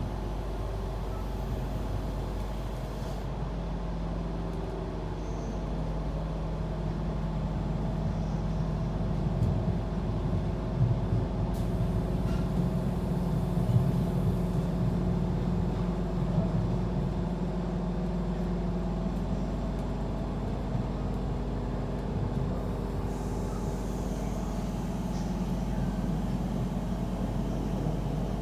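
Inside a moving electric passenger train: steady running noise with a low motor hum, and a few short clunks from the wheels and couplings partway through.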